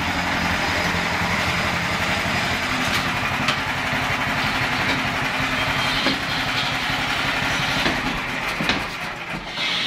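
Engine of a flail mower running steadily with a fast low pulse, a few sharp knocks over it; it eases slightly near the end.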